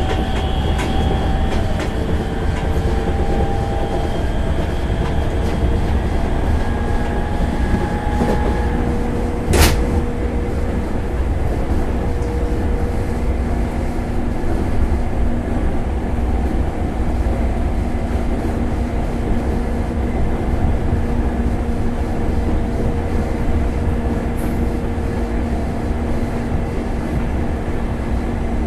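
Onboard running sound of a JR 205 series 5000 motor car: a steady low rumble of wheels and traction motors, with motor and inverter tones that step in pitch over the first several seconds and then settle into a steady hum. A single sharp knock comes about ten seconds in.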